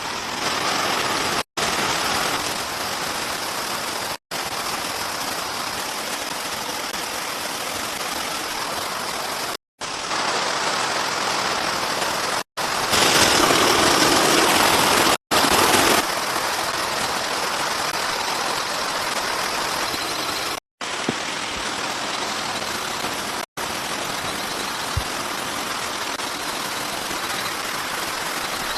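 Heavy rain falling, a steady loud hiss. It is cut into several separate takes with brief drop-outs between them, and one stretch about halfway through is louder.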